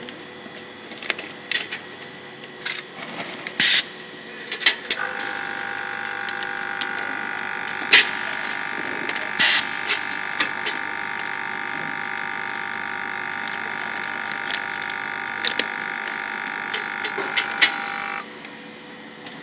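Tuna filling machine running with repeated clicks and knocks and two short hisses. A steady whine comes in about five seconds in and cuts off shortly before the end.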